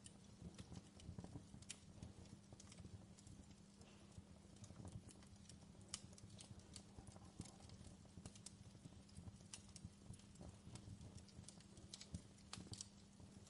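Faint fire crackling in a fireplace: irregular pops and snaps over a steady low hum.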